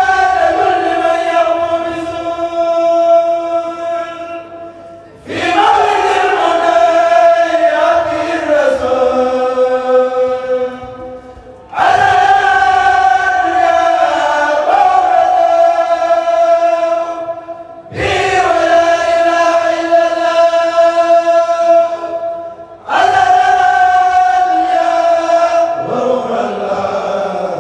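Kourel choir chanting a Mouride khassaid in unison: long drawn-out sung phrases, a new one beginning about every six seconds after a brief breath.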